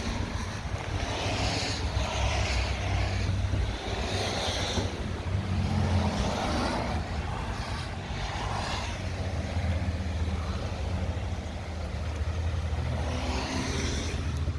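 2010 Dodge Charger SRT8's 6.1-litre HEMI V8 idling steadily through a loud modified exhaust.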